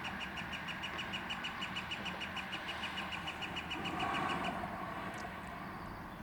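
Northern flicker giving its long call, a fast, even run of short high "wick" notes at about eight a second that stops about four and a half seconds in.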